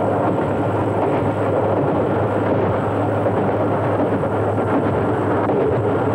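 Electric locomotive running along the line: a steady rumble of running noise with a low hum, heard through an old, lo-fi film soundtrack.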